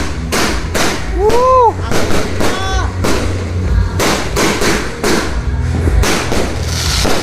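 Fireworks going off in rapid succession, many sharp bangs a second over a low rumble. A person shouts "Woo!" about one and a half seconds in.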